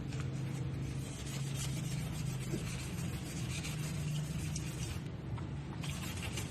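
Power sander running against a powder-coated surface: a steady motor hum with gritty scratching of the abrasive, which eases briefly near the end.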